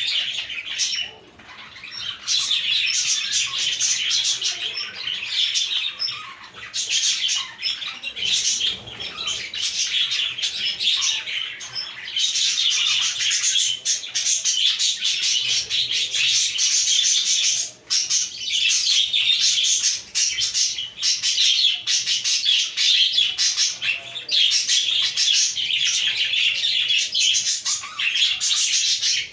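A flock of budgerigars chirping and warbling continuously, many birds at once in a dense, overlapping chatter, with a brief lull about a second in.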